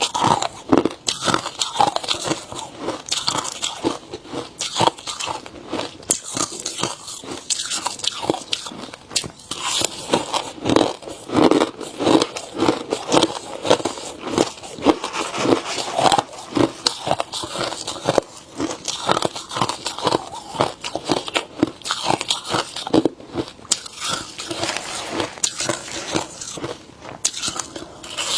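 Ice being bitten and chewed close to the microphone: loud, dense crunching and cracking that keeps up without a break.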